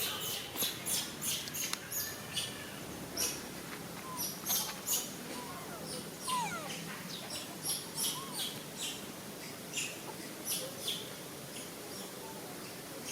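Animal calls: many short, high chirps at irregular intervals, with a couple of brief whistled glides about six and seven seconds in, over a steady outdoor background hiss.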